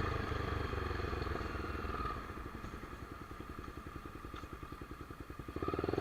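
Honda CBX 250 Twister single-cylinder engine with a straight-pipe exhaust. It eases off about two seconds in and runs at low revs with distinct, evenly spaced firing pulses, then picks up again near the end.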